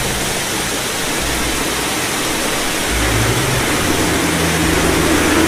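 Storm sound effect: a steady rush of wind and water noise with a low rumble underneath, growing slightly louder towards the end.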